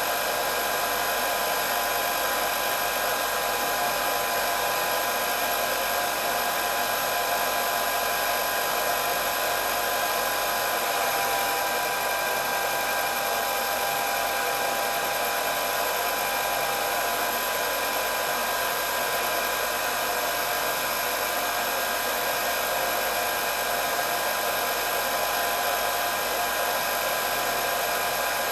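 Electric hair dryer running steadily: a constant rush of blown air with a high whine from its motor and fan.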